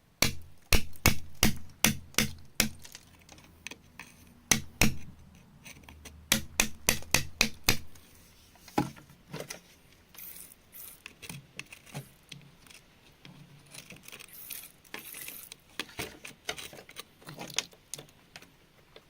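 Rapid sharp knocks and clinks of hard objects striking rock and stone, two to three a second for the first eight seconds or so, then sparser and fainter.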